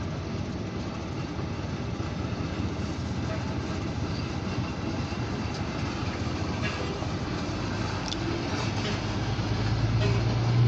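Diesel locomotives of a light power move running with a steady rumble. A low engine drone swells louder near the end.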